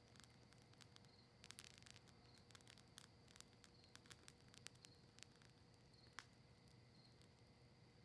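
Faint crackling of a campfire burning cedar leaves and maple wood: irregular sharp pops and snaps, a quick flurry of them about one and a half seconds in and a stronger single pop about six seconds in.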